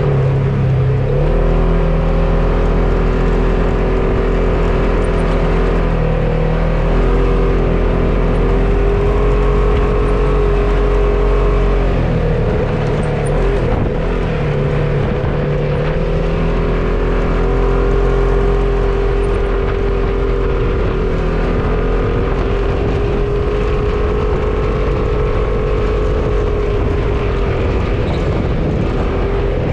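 Off-road vehicle engine running steadily, its pitch shifting a few times with the throttle.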